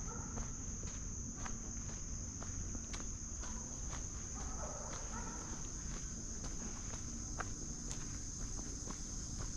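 Insects droning on one steady high note, with footsteps crunching irregularly along a trail.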